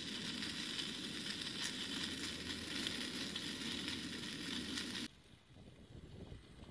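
Bratwurst, bell peppers and onions sizzling steadily in a foil-covered frying pan on a single-burner propane camp stove, with water added to the pan. The sizzling cuts off suddenly about five seconds in, leaving only faint background.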